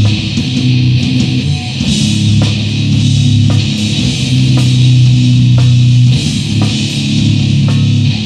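Grind/noise band playing loud: heavily distorted guitar and bass holding low chords that change every couple of seconds, with drum hits about once a second.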